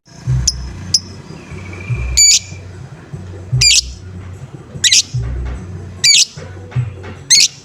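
Lovebird giving short, harsh squawking calls, the 'ngoek' call used as a lure, repeated about every second and a quarter, over background music with a deep repeating beat.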